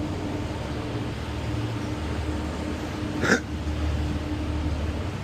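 Ferry engine running with a steady low rumble and a faint steady hum. A little over three seconds in, one short, sharp sound rises quickly in pitch and is the loudest moment.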